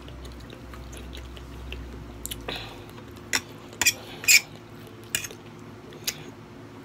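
Close-miked eating sounds as a person chews pork and broccoli: scattered short wet mouth clicks and smacks, the loudest about four seconds in.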